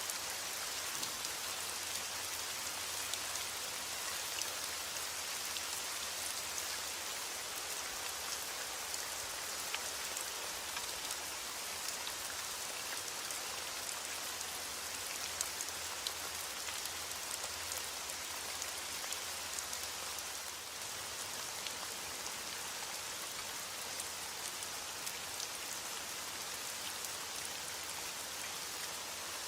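Steady rain falling: a dense, even hiss of drops with scattered sharper drop ticks, and no thunder.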